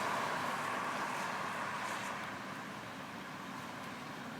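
Steady vehicle noise, a rushing hiss without distinct events, slowly easing off.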